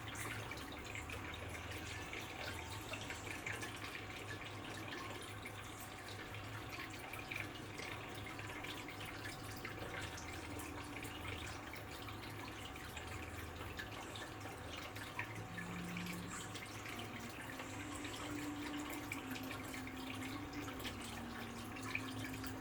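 Water trickling and dripping steadily, with many small drips and splashes.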